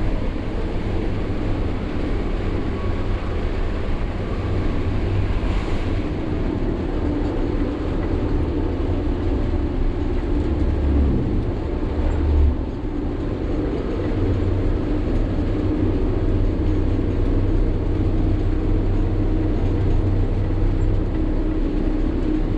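Sany 6x4 dump truck's diesel engine and road noise while driving: a steady low drone, with a brief louder bump about twelve seconds in.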